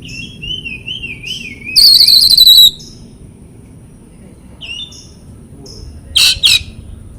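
Oriental magpie-robin (kacer) singing: a wavering whistled phrase, then a loud harsh rattling burst about two seconds in, a few short high chirps, and two sharp loud notes near the end.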